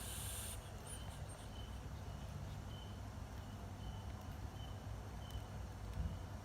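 Faint, short high-pitched chirps repeating evenly, roughly every half second, over a steady low rumble, with a brief low thump near the end.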